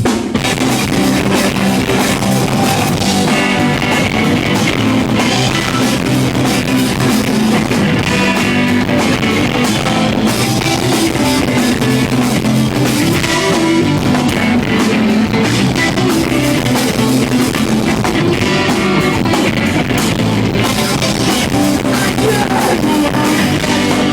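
Rock band playing live at full volume: electric guitars over a drum kit, with some singing.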